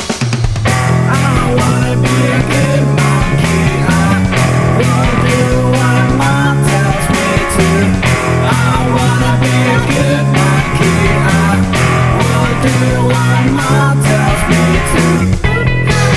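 Home-recorded rock song with guitar and bass over a steady beat, played in a loose, partly deliberate out-of-tune style.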